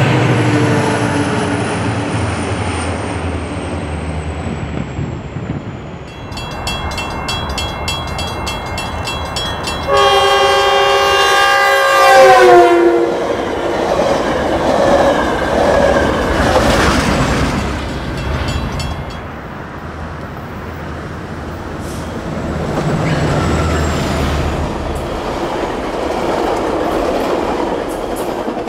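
Metrolink commuter trains passing close by. First a diesel locomotive's engine drone falls in pitch as it goes past. Then a bell rings rapidly, and a loud multi-note train horn sounds for about three seconds, dropping in pitch as the train passes, followed by the rumble and clatter of bilevel coaches rolling by.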